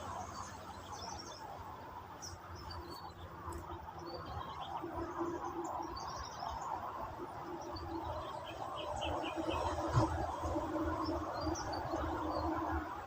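Small birds chirping in short scattered calls over a steady outdoor background hum, with a single low knock about ten seconds in.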